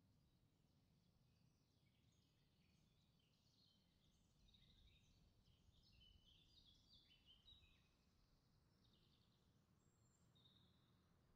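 Near silence, with faint high chirping of small birds that is busiest about halfway through.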